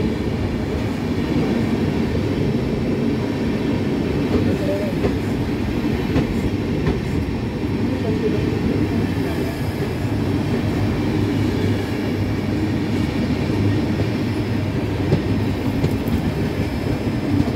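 Steady rumble of train wheels running on rails as a train of red and grey passenger coaches passes close alongside on the adjacent track.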